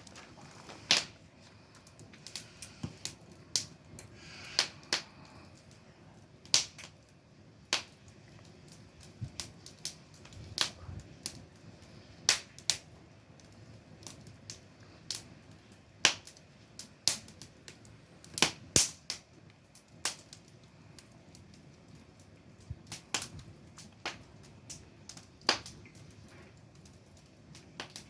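Wood fire crackling: sharp pops and snaps at irregular intervals, a few every couple of seconds, over a faint steady hiss.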